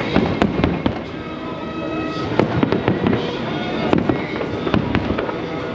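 Aerial fireworks bursting in quick succession, several sharp bangs a second, with music playing underneath.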